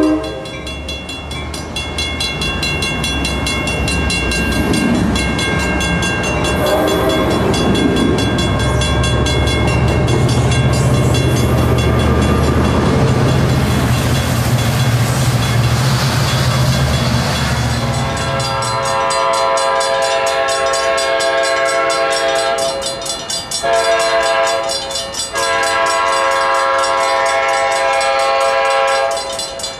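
An Amtrak Surfliner train of bilevel passenger cars rolls past, a steady rush of wheel and rail noise over a low rumble. About 19 seconds in it cuts off, and a Coaster F40PH locomotive's Nathan K5LA five-chime air horn sounds long, loud blasts, broken three times briefly.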